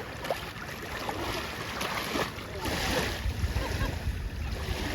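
Wind rumbling on the microphone over water at the shore, the rumble growing heavier a few seconds in, with faint distant voices.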